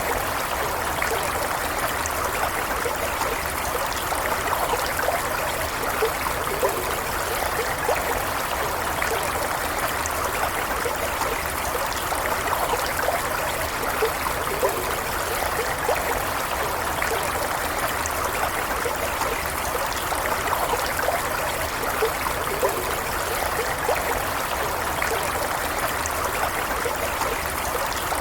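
A shallow stream flowing steadily, with a continuous rush of running water and small bubbly trickles and gurgles over it.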